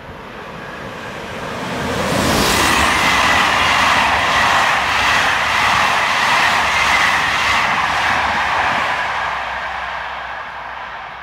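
A train passing: the rumble of wheels on rail swells over about two seconds, holds loud for several seconds with a steady high whine and regular clatter, then fades away.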